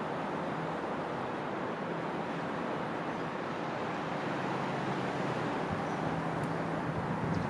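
Steady rushing background noise with no bird calls standing out. A low hum grows stronger over the last two seconds or so.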